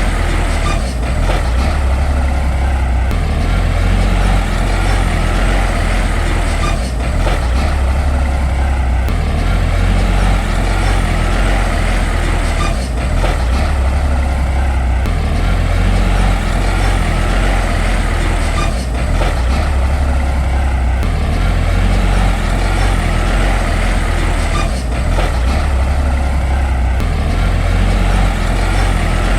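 Shantui D95 bulldozer's diesel engine running with a deep, steady rumble, swelling and easing in a repeating cycle every few seconds as it works.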